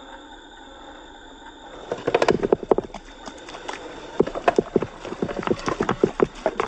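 Rocks clattering and knocking against each other as they tumble out of an RC dump truck's tipped bed, a dense, irregular run of sharp knocks starting about two seconds in, over a faint steady hum.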